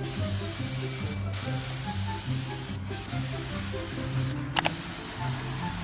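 Paint spray gun hissing steadily as it sprays, the hiss cutting out briefly three times as the trigger is released, over background music.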